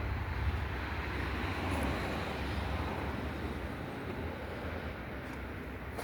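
Motorcycle engine running steadily, its level easing slightly in the second half.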